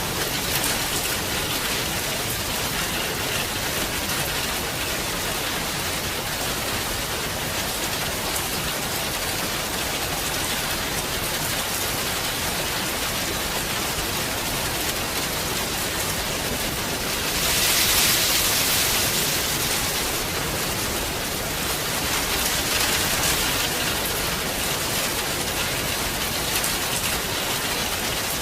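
Heavy rain falling in a steady hiss. About two-thirds of the way through it surges louder for a couple of seconds, then settles back.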